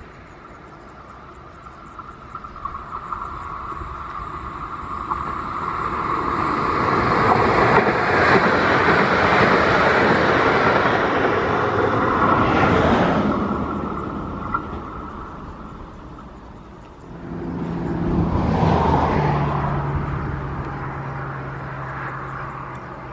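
A passenger multiple unit passes on electrified track. Its running noise builds to a loud peak with a steady high whine, then fades. About three-quarters of the way in, a freight train of container wagons comes by, starting loud with a low steady hum and easing into a fading rumble of wagons.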